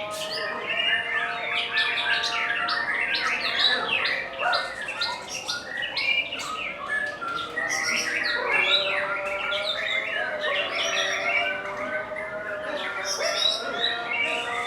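Many caged songbirds singing at once in a contest: a dense, continuous chorus of overlapping chirps, trills and quick whistled glides, with a few longer held notes underneath.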